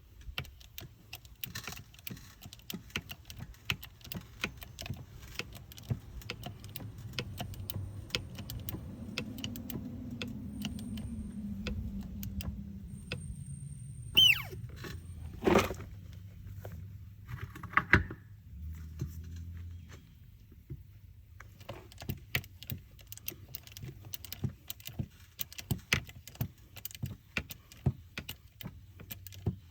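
Metal tools and parts clinking and rattling during repair work on a steel wheel rim, with two loud ringing metal clangs about halfway through and a sharper knock shortly after.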